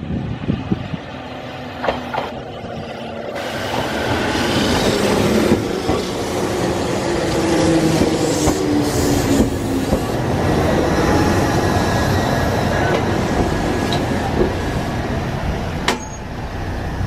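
Ohmi Railway electric commuter train, set 103, pulling into the station close by. Its wheels rumble and clatter on the rails, growing louder as the cars pass, with a few brief high squeals and a sharp click near the end.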